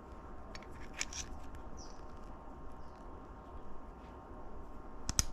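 Small clicks and taps of transmission parts being worked into place by hand, with a sharper click just before the end, over a steady low hum.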